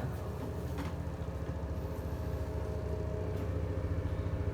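A steady low mechanical hum with a fast, even pulse, like a running motor, growing slowly louder.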